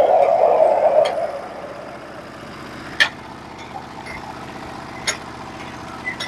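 Norwood HD36v2 portable sawmill's gas engine running. It is louder for about the first second, then settles to a steady run, with two sharp knocks about three and five seconds in.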